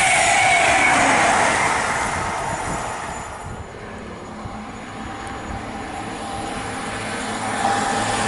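An express passenger train rushes past close by with a steady whine, and its noise dies away over the first few seconds. Near the end a CrossCountry Voyager diesel unit approaches, its hum and whine growing louder.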